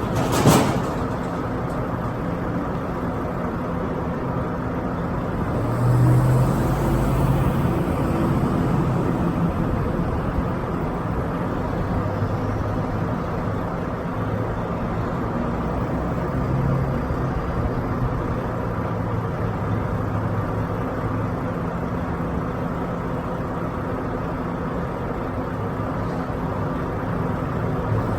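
Semi truck's diesel engine running steadily at low revs, with a sharp click about half a second in. The engine note rises and grows louder for a few seconds from about six seconds in.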